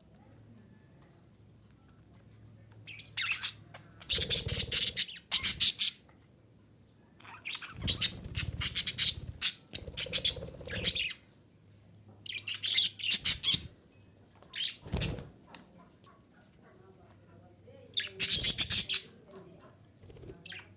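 Female budgerigar giving rapid, high, scratchy chatter and squawks in about five bursts of a second or more each, with quiet gaps between them. A faint steady low hum sits under the gaps.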